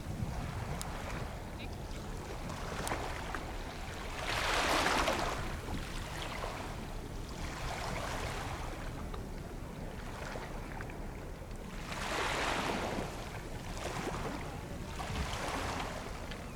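Waves washing onto the shore, swelling in a hiss every few seconds over a steady low rumble.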